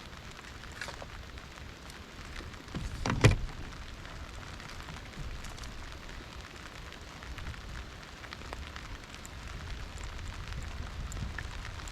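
Steady low rumble of wind on the microphone with scattered light ticks, and one sharp, loud thump or splash about three seconds in.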